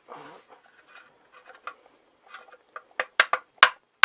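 A few faint scraping sounds, then a quick run of about five sharp taps near the end, as the seized end cap of a Harley-Davidson XG 750 stock silencer is worked loose and comes free.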